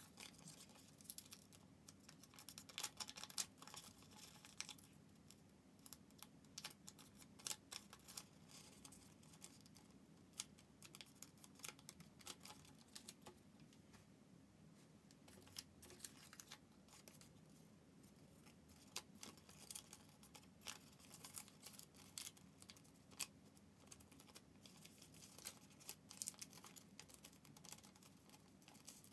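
Origami paper being folded and creased by hand: faint, irregular crisp clicks and rustles.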